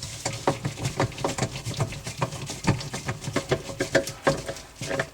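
Screws being driven back in by hand to fasten a part inside a dishwasher: a quick, uneven run of small clicks and taps, several a second.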